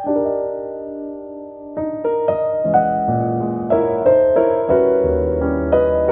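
Gentle background piano music: a held chord for the first couple of seconds, then a melody over fuller chords with a bass line coming in.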